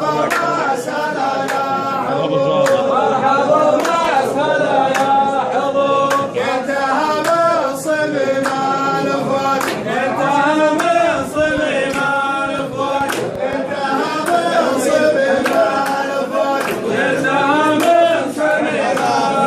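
Group of men chanting a razif, the Gulf Arabian folk song, in unison, with sharp percussive hits at a regular beat.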